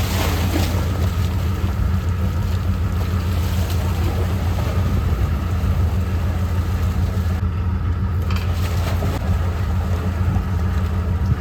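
Farm vehicle's engine running steadily with a low, even hum.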